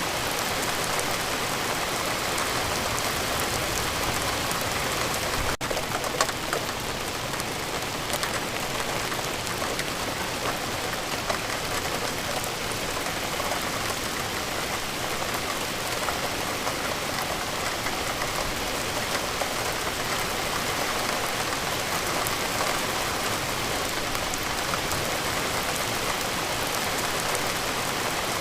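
Steady rain falling, an even hiss with a few louder drops standing out. A very brief dropout about five and a half seconds in.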